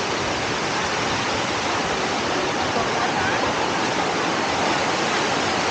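Steady rush of a waterfall, water pouring and splashing with an even, unbroken noise. Faint voices come and go underneath.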